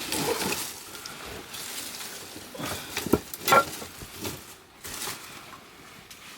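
Firewood burning in the firebox of a wood-fired bath, crackling with irregular sharp pops over a soft hiss, the loudest pops about three seconds in.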